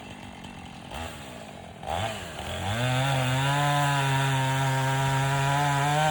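Chainsaw idling, blipped twice, then revved up about three seconds in and held at a steady high speed, cutting into a hickory trunk.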